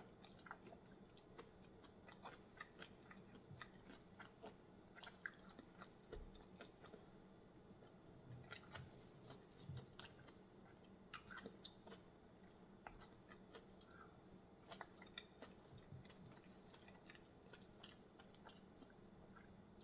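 Faint close-up chewing of shrimp, with scattered soft clicks and smacks as fingers pick through the seafood boil.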